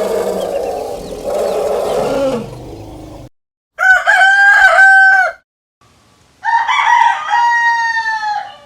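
Two long animal calls, each held about a second and a half on a steady pitch, after a brief gap. A fainter, fading pitched call trails off in the first three seconds.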